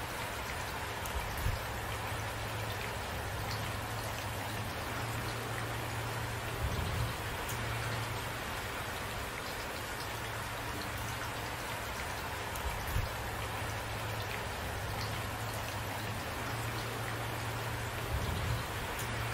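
Steady rain, a dense even hiss of falling drops, with a few short dull low thumps every five or six seconds.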